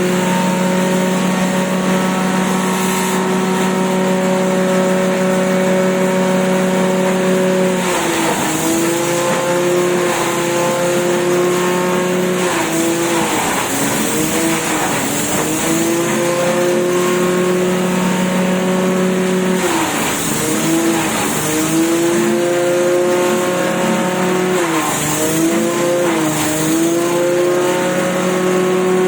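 Grass chopper machine running steadily. Its motor's pitch sags briefly and recovers several times, the machine slowing under the load of grass being fed through the cutter.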